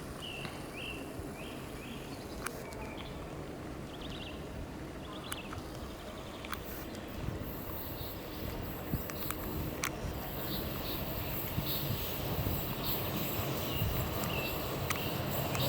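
A small bird chirping in short repeated notes, over a low rumble that grows louder near the end.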